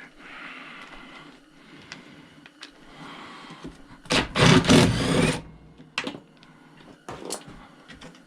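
A hand-held power tool runs in one burst of about a second, a little past the middle, backing out a bolt on a chop saw, followed by a few sharp metal clicks. A steady low hum runs underneath.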